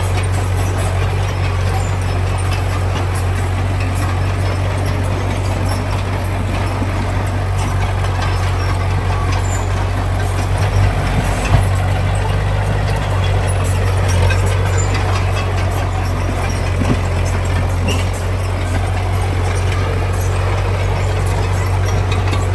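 Heavy diesel engine of earthmoving machinery running steadily with a deep, even drone, and a brief knock about halfway through.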